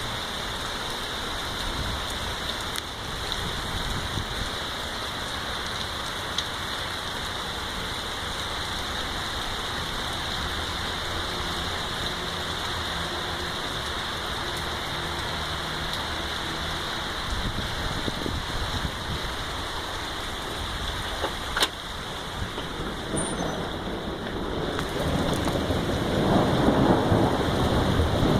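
Heavy rain pouring down steadily, with water streaming off a roof and out of the gutters. Thunder rumbles low in the middle, and the storm grows louder near the end.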